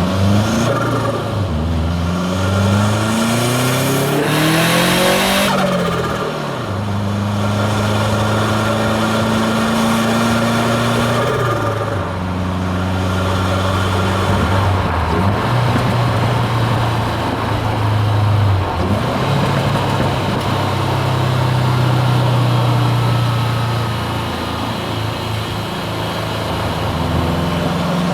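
Turbocharged Subaru WRX STI flat-four pulling hard with its pitch climbing, then a loud rush of turbo and external-wastegate noise about four seconds in. After that the engine settles into a steady cruise, its note stepping up and down a few times with light throttle changes.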